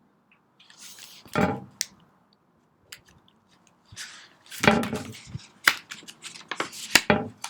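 Paper rustling and handling noises as a picture book's pages are turned, with a few sharp clicks and bumps and three stronger rustles about a second and a half in, near the middle and near the end.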